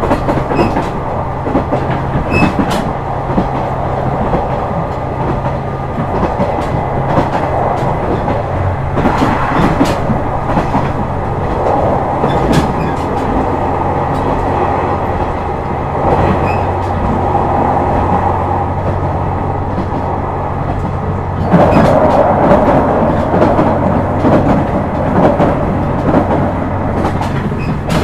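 KiHa 126 series diesel railcar running at speed, heard from on board: a steady diesel engine drone with rhythmic clicks of the wheels over rail joints. The engine note drops about halfway through, and the running noise grows louder for the last few seconds.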